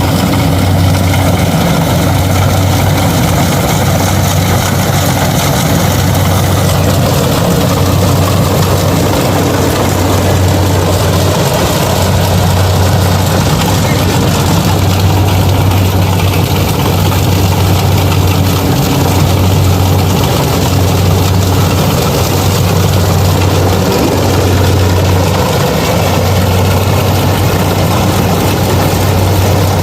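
Kubota DC-70 rice combine harvester's diesel engine running steadily with a loud, deep hum, slightly pulsing, under the noise of the machine working.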